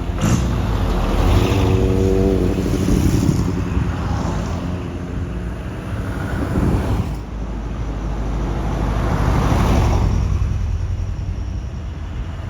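Large diesel trucks driving past one after another, each engine note swelling up and fading as it goes by.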